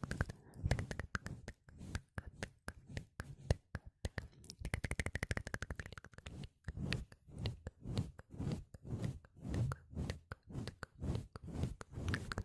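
Close-miked ASMR mouth sounds: rapid runs of wet tongue clicks and lip pops, with soft low puffs between them.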